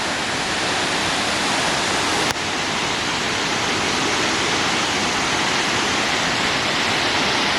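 Waterfall rushing, a steady roar of falling water, briefly dipping about two seconds in.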